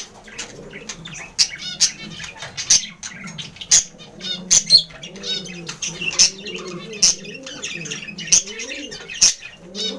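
Caged budgerigars chattering with many sharp chirps, with wing flapping as a newly introduced female moves about the male's cage.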